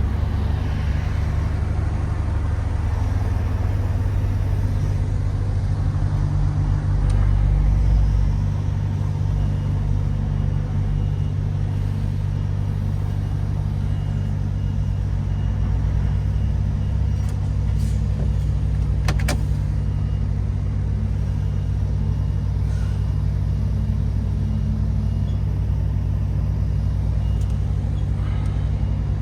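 Steady low drone of a MAN TGX 18.510 truck's six-cylinder diesel engine with road noise while driving, swelling slightly about six to eight seconds in. A single sharp click about nineteen seconds in.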